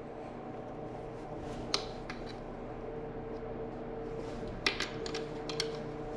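A few light metallic clicks and taps of hand tools on the motorcycle's wheel and sprocket hardware, one near two seconds in and a small cluster near the end, over a steady hum.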